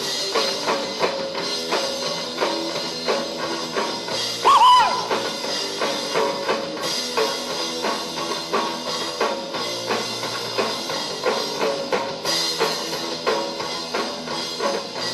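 Live rock band playing an instrumental passage: drum kit keeping a steady beat under electric guitar. A brief louder wavering high note stands out about four and a half seconds in.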